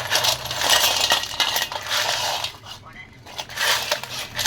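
Small metal engine parts and hand tools clinking, scraping and rattling against each other, in a dense run of quick metallic clicks with a short lull past the middle.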